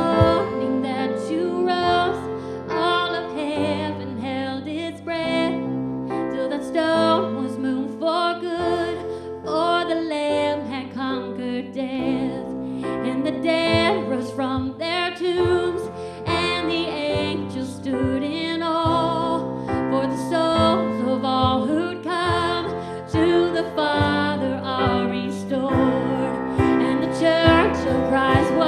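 Church worship band music: a continuous passage with piano and guitar under a wavering melody line.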